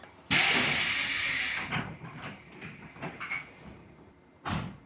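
Loud hiss of compressed air from a local train's pneumatic system, lasting about a second and a half, followed by a few light clicks and a dull thud near the end.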